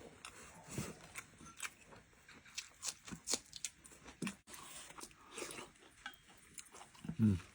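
Faint eating sounds: soft chewing of stewed lion's mane mushroom and chicken, with scattered small clicks.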